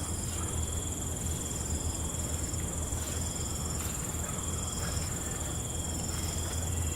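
Night insects: a steady high-pitched cricket trill, with shorter insect calls chirping on and off above a low, even rumble.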